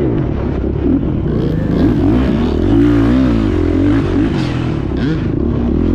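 2024 Beta 430 Race Edition dirt bike's four-stroke single-cylinder engine running under load, its pitch rising and falling as the throttle is worked, with a sharp rev up and back down about three seconds in.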